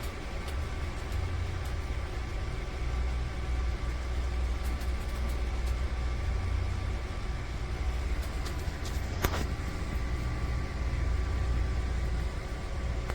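A steady low mechanical hum with faint steady tones above it, and a single sharp click about nine seconds in.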